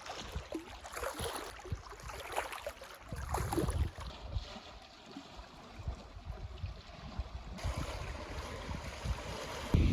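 Small waves lapping and splashing at the water's edge, with gusty wind rumbling on the microphone.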